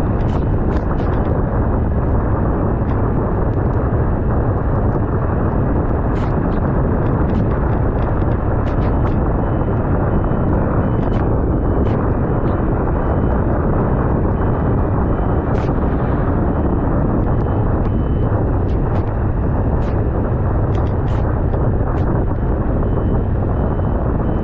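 Steady rush of wind on the microphone of a camera riding on a moving motorcycle, mixed with the bike's running engine, with scattered faint ticks.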